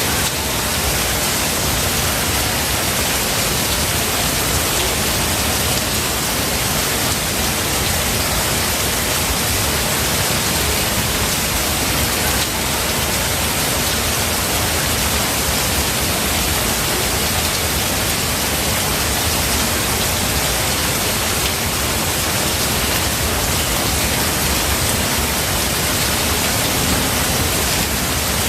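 Steady heavy rain falling in a forest, a dense even hiss with no thunder.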